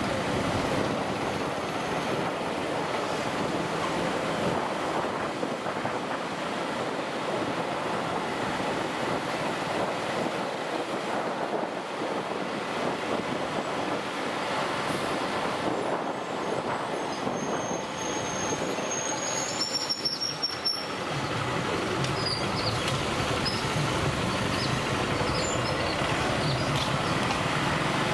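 Steady rushing noise of a motorcycle ride on a hill road, engine, road and wind mixed together. A few brief high squeals come through about two-thirds of the way in.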